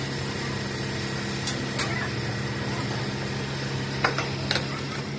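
A machine running with a steady low hum, with a few sharp clicks or knocks, once about two seconds in and twice near the end.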